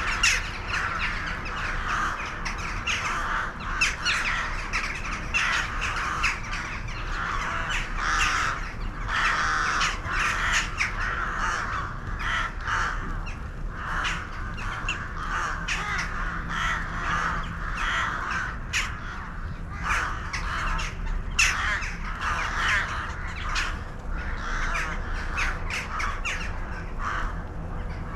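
A large flock of birds calling all at once, many overlapping calls with no break.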